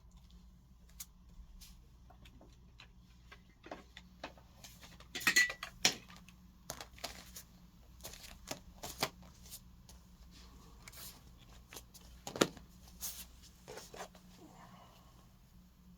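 Scattered clicks and light knocks at uneven intervals, with a cluster of louder ones about five seconds in and a single sharp knock about twelve seconds in.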